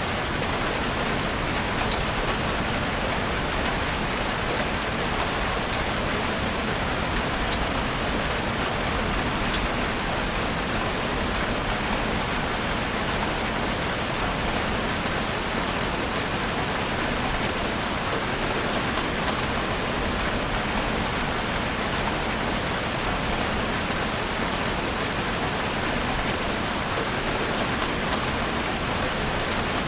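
Heavy rain falling on a roof: a steady, even hiss with fine drop ticks scattered throughout.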